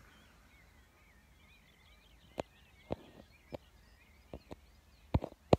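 Faint birdsong, a thin wavering warble, over quiet outdoor background. From about halfway it is broken by a handful of sharp clicks at uneven intervals, the loudest near the end.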